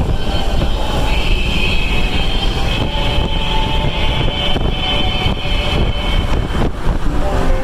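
Steady rumble of a moving vehicle heard from inside, heavy in the low end with a faint higher whine over it.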